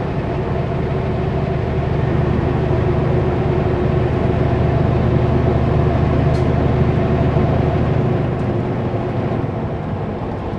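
Kenworth W900L semi-truck hauling a loaded Super B trailer at highway speed: a steady low engine drone under road and wind noise, swelling slightly in the middle and easing near the end.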